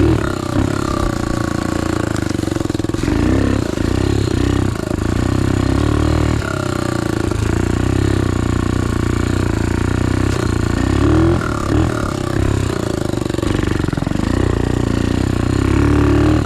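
Small 125cc single-cylinder pit bike engine running under way, its pitch rising and falling as the throttle is opened and eased off, with brief dips in level.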